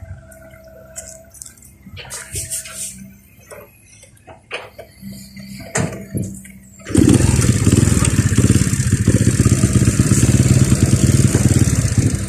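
A few quiet knocks and clicks, then about seven seconds in a motorcycle engine starts up and runs loudly close by.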